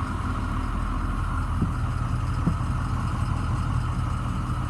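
6.0-litre Power Stroke diesel V8 of a 2006 Ford E-450 bus idling steadily, with a steady hiss over it.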